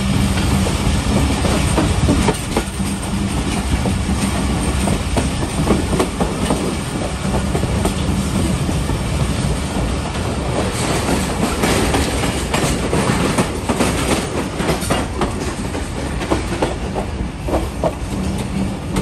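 Passenger train coach running along the track: a steady rumble with wheels clacking over rail joints, the clacks thickest in the middle.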